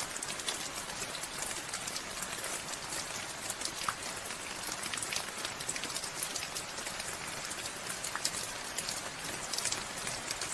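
Steady rain falling, a continuous hiss with many individual drops ticking and pattering on surfaces.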